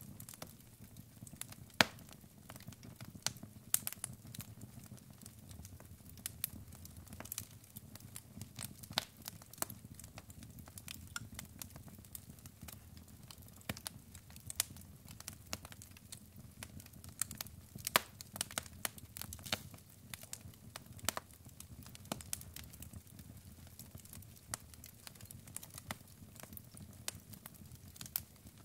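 Logs burning in a fireplace, crackling with irregular sharp pops and snaps over a low steady rumble of the flames.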